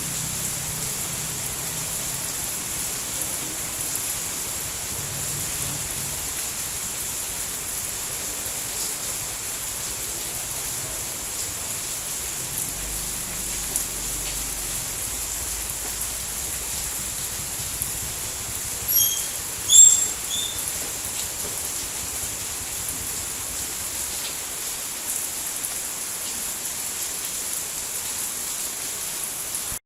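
Steady rain falling, an even hiss that does not change. About two-thirds of the way in come a few short, high chirps.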